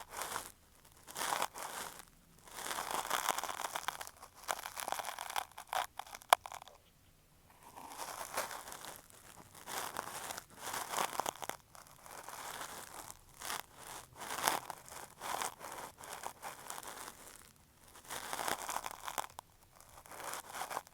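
Cotton swab rubbing and scraping over an earphone microphone in ear-cleaning strokes, giving close, crinkly scratching in repeated passes with short pauses. There is one sharp click about six seconds in.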